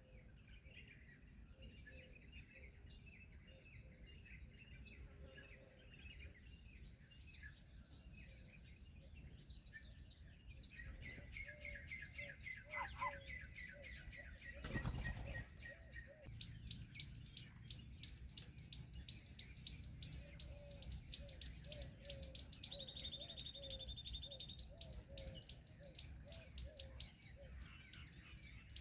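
Birds chirping: soft, scattered twitters at first, then a brief rustling burst about halfway. After that comes a loud, fast, evenly spaced run of high chirps, with one longer held note partway through.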